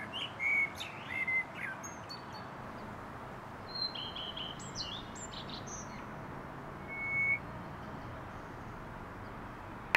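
Birds chirping over a steady faint outdoor hiss: a few short chirps in the first two seconds, a cluster of higher chirps in the middle, and one clear held note near the end.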